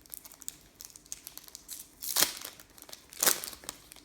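Trading-card pack wrapper crinkling as it is handled and opened, with two louder rustles about two and three seconds in.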